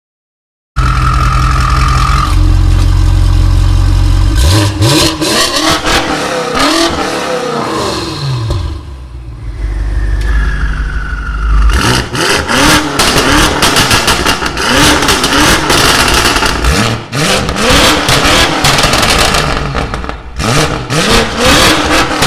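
BMW M5 twin-turbo V8 exhaust revving hard. The pitch climbs and drops again and again, with many sharp cracks in the second half.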